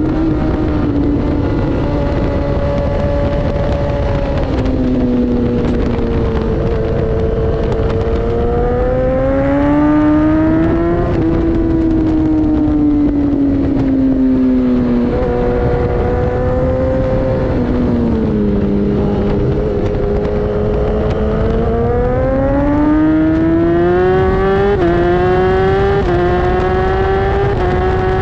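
Inline-four sportbike engine at speed on a race track, heard onboard: the engine note climbs and falls repeatedly with throttle and gear changes, with sudden steps in pitch near the end, over a steady rush of wind.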